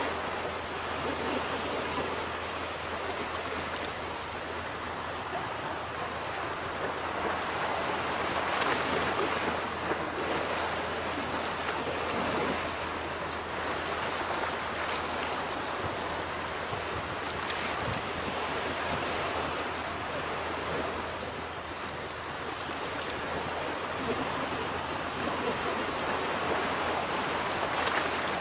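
Ocean surf washing onto a beach: a continuous rushing wash that swells and eases, louder about a third of the way in and again near the end.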